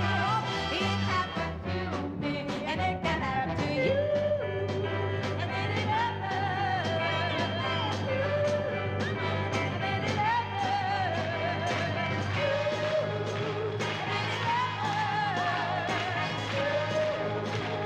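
Live pop ballad performance: a woman's voice singing held, wavering notes over a full orchestra.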